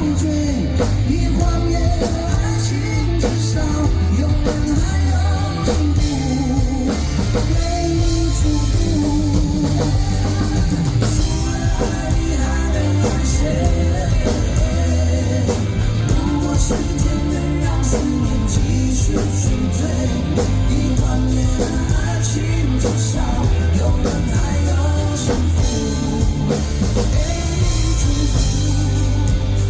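Live rock band playing with drum kit and guitar, a steady loud beat with no words sung.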